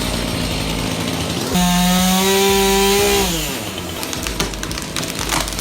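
Chainsaw engine opened up to full throttle about one and a half seconds in, held at a steady high pitch for about a second and a half, then falling away as the throttle is released. Irregular noise with scattered clicks and knocks follows.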